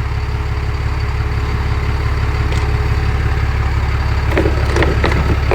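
Ford F650 box truck engine idling steadily; it keeps running because the key will not shut it off, a fault the owner puts down to a bad starter solenoid. A few light clicks and knocks come near the end.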